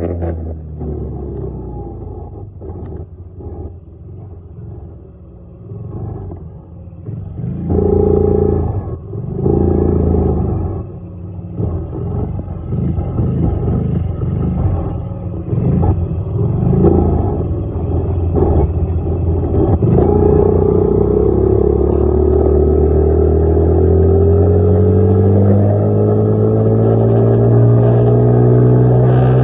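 Dirt bike engine running while being ridden, its revs rising and falling in surges, then holding loud with the pitch climbing steadily over the last third.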